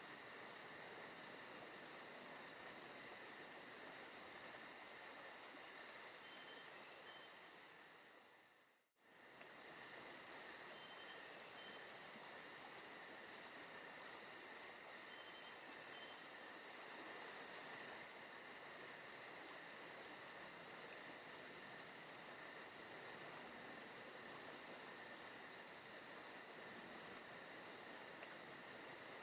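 Forest ambience of crickets chirring steadily, with a fast, even pulsing high in pitch. It fades out to near silence about nine seconds in and comes straight back.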